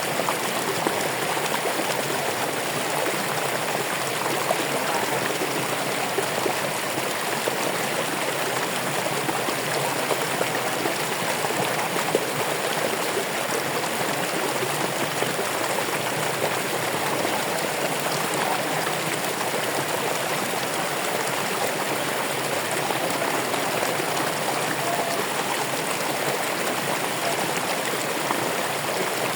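Running water flowing steadily, an even rush that does not change.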